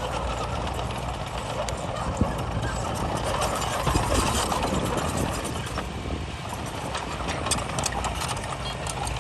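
Heavy diesel earthmoving machinery, a bulldozer or dump truck, running steadily, with sharp knocks about two and four seconds in.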